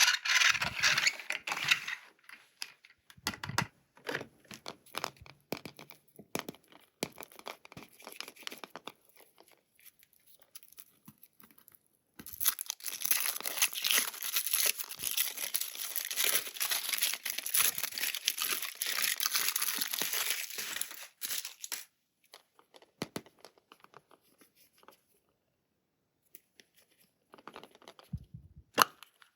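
Toy packaging being unwrapped by hand, crinkling and tearing. Short rustles and clicks come first, then a long stretch of continuous tearing and crinkling in the middle, and then a few more brief crinkles.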